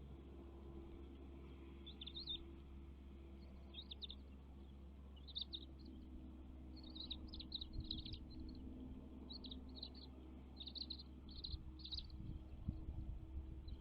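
A bird chirping in short, high calls, singly at first and then in quick clusters. A steady low hum runs underneath.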